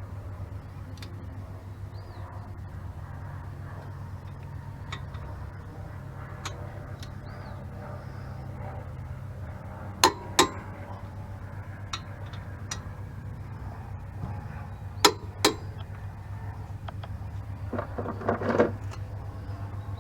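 Sharp metallic clinks of tools and brake parts being handled: two quick pairs of strikes about halfway through, and a short burst of knocks near the end, over a steady low hum.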